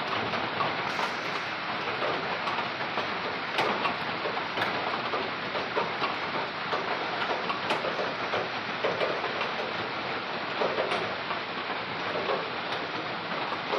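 Steady drizzling rain: an even hiss of falling drops with many small irregular ticks of drops striking surfaces.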